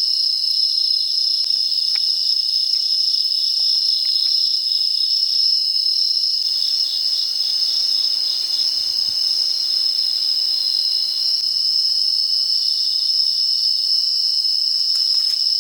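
A dense, steady chorus of crickets chirping, high-pitched and unbroken, with a few faint clicks underneath.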